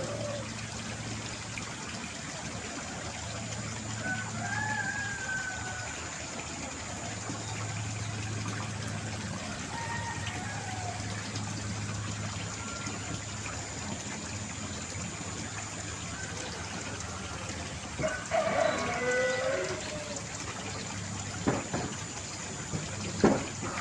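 Rural farmyard ambience: chickens and a rooster call a few times over a steady low hum. Two sharp knocks come near the end.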